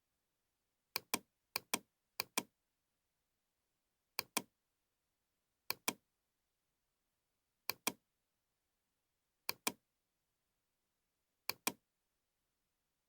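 Computer mouse clicking: eight sharp double clicks, the two clicks in each pair about a fifth of a second apart, coming every one to two seconds with silence between.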